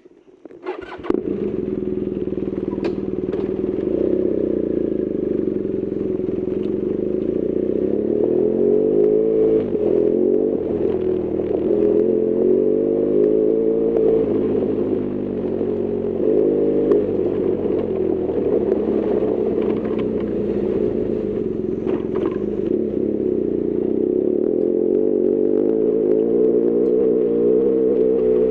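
BMW R1200GS Adventure's boxer twin engine running under way, comes in suddenly about a second in, its pitch rising and falling as the revs change.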